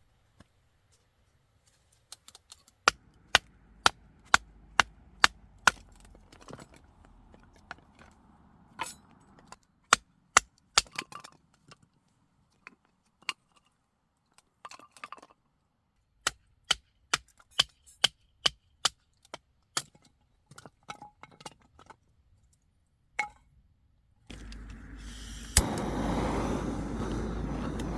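Repeated sharp knocks in runs of several strikes, about two or three a second. Near the end a steady, louder rushing noise starts.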